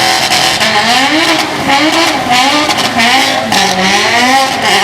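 Car engine being revved in quick, repeated blips, its pitch rising and falling several times in a row.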